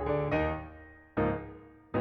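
Background piano music: chords struck and left to ring out, ending with a final chord near the end.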